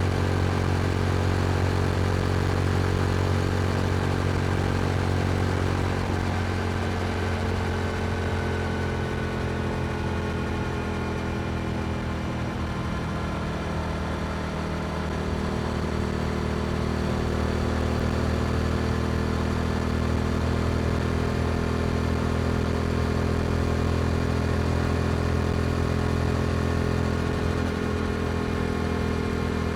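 Yamaha R7's parallel-twin engine through an Akrapovic exhaust, cruising at steady revs. The note eases off slightly about six seconds in and picks back up about halfway through.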